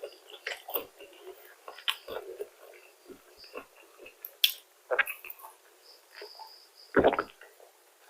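A person chewing and biting food close to the microphone during a fried chicken and fries meal: scattered short clicks and crackles, with one louder knock about seven seconds in.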